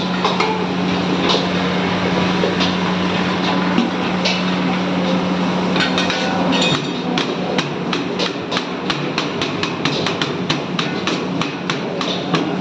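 Metal cooking utensils striking repeatedly, sparse at first, then a fast, even clatter of about three or four strikes a second from about halfway in, over a steady low hum that stops around the same point.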